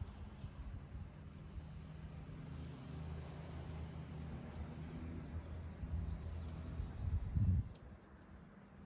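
Wood fire burning in a rusty can, with faint crackles over a low rumble. The rumble swells to its loudest about seven seconds in, then drops away.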